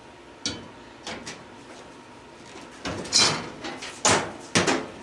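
Irregular metal knocks and clanks from an old gas stove's panels and parts being handled during teardown, with a short rattling clatter about three seconds in.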